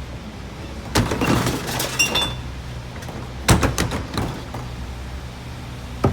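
Trash landing in the hopper of a McNeilus rear-loader garbage truck: glass crashing and clinking as it breaks, in three loud crashes about a second in, about three and a half seconds in and at the very end. The truck's Peterbilt diesel idles steadily underneath.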